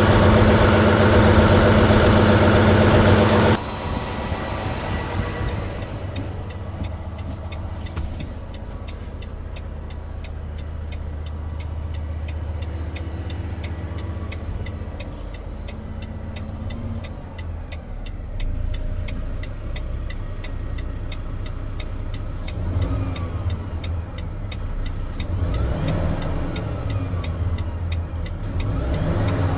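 Volvo FH 500 truck's diesel engine idling. It is loud at first, then drops suddenly about three and a half seconds in to a quieter steady hum with a fast, even ticking over it.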